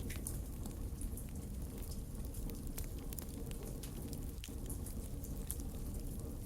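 Wood campfire burning, crackling with many small irregular pops over a low steady rumble of the flames.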